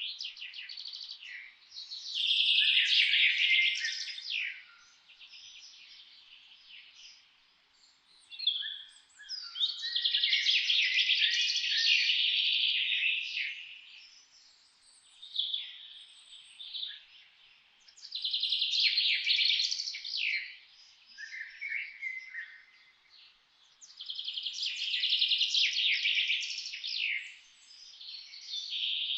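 A songbird singing long, rapid warbled phrases of two to four seconds, repeated about every seven seconds with brief quieter chirps in the gaps.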